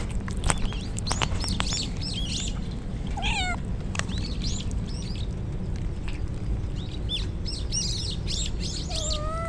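Stray cats meowing: a falling meow about three seconds in and a longer one near the end, among many short, high chirping calls over a steady low background noise.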